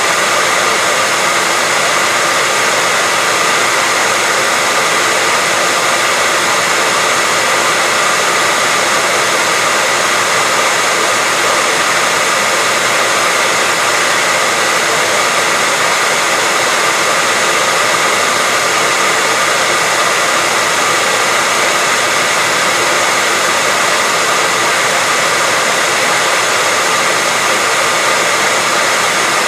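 Hair dryer blowing steadily, a constant rushing hiss with a faint steady whine in it.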